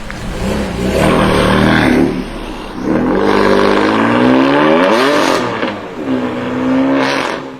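High-performance BMW car engine accelerating hard. Its pitch climbs from about three seconds in, drops sharply just after five seconds, then rises again and holds briefly before fading out.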